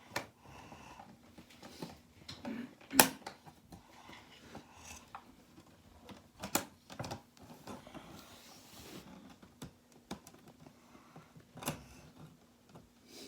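A container lid being worked open by hand: scattered sharp clicks and knocks, the loudest about three seconds in, with a brief rustle near the nine-second mark.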